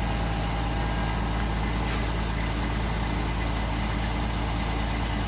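Heavy diesel truck engine running at a steady speed, a low even drone with no change in pitch, during a recovery pull from the rear.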